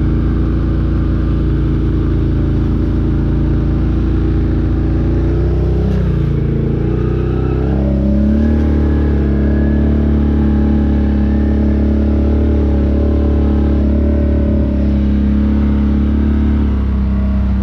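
Off-road vehicle engine running steadily under way on a trail. Its pitch wavers and drops about six seconds in, then settles at a new steady pitch a couple of seconds later.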